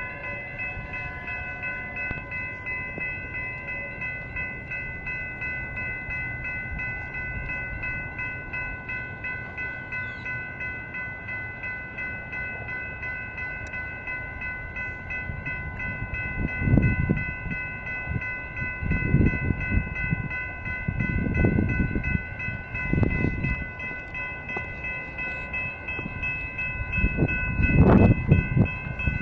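Grade-crossing warning bells ring steadily as a Metra commuter train approaches. From about halfway through, the train's low rumble surges in and grows louder toward the end.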